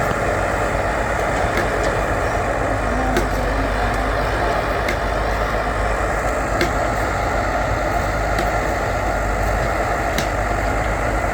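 Diesel engine of heavy earthmoving machinery running steadily, with a few faint sharp clicks over it.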